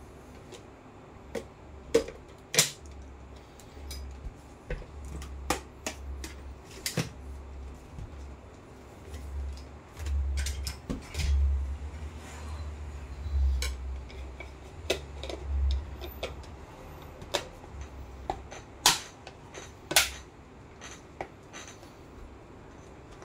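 Handling noise: irregular sharp clicks and light knocks of small hard parts being handled, with low rumbling bumps in the middle stretch.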